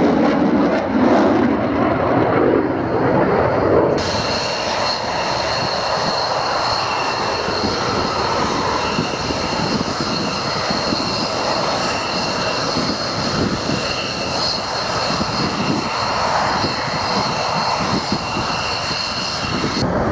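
Aircraft engine noise, loud and steady. About four seconds in, after an apparent cut, a steady high whine joins the roar and holds.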